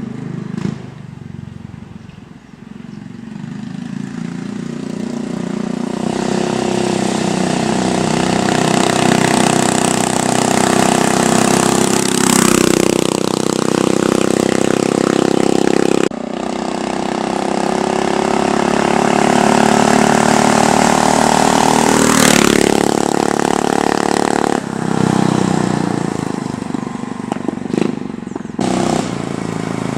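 A minibike's Honda GX160 single-cylinder four-stroke engine running under way. It builds up in loudness over the first several seconds, with two sharp pitch sweeps like the bike passing close by.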